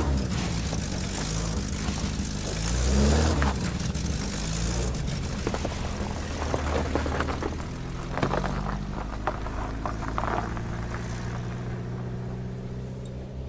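Car engine revving, its pitch rising and falling several times in the first few seconds, then running more steadily. A scatter of sharp clicks and knocks comes in the middle.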